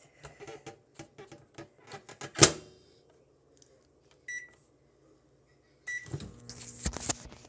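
Microwave oven being loaded and started: a run of light clicks and a loud clack as the door shuts, two short high keypad beeps, then the oven starts running with a steady low hum.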